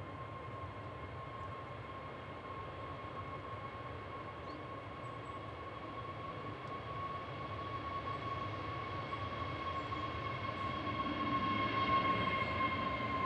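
Jet airliner engines whining steadily over a low rumble, growing gradually louder as the aircraft comes closer, loudest near the end.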